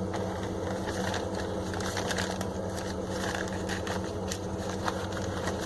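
Newspaper crinkling and rustling in irregular small crackles as a lemon is wrapped in it by hand, over a steady low hum.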